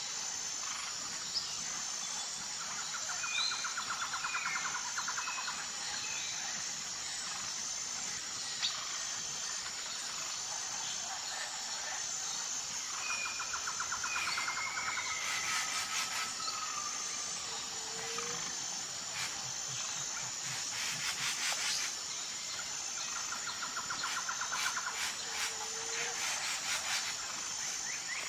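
Forest ambience: a steady high pulsing insect chorus, with various birds chirping and whistling and a fast trilling song repeated about three times. Bouts of rapid clicking chatter come in the second half.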